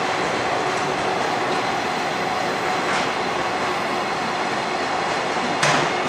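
Container wagons of a freight train rolling past at speed: a steady rumble of steel wheels on rail with the clack of wheels over rail joints, one sharper, louder clack near the end.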